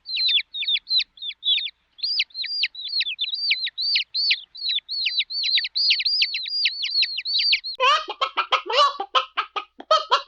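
Cartoon bird sound effect: a fast, even run of high chirps, about four or five a second, each quickly rising then dropping, with a short break about two seconds in. Near the end it changes to rapid, lower, clucking chatter like a chicken.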